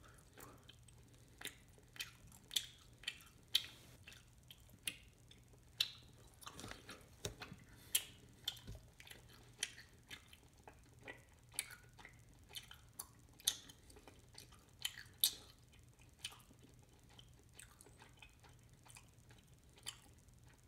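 A person chewing gummy fruit snacks: soft, irregular wet clicks and smacks, about one or two a second, thinning out near the end.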